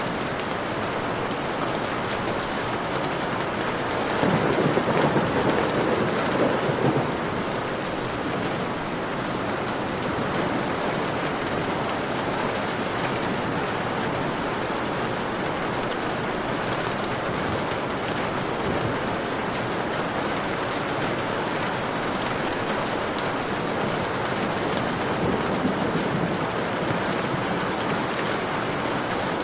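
Steady heavy rain pattering on a window, with a rumble of thunder swelling up about four seconds in and lasting a few seconds, and a fainter rumble near the end.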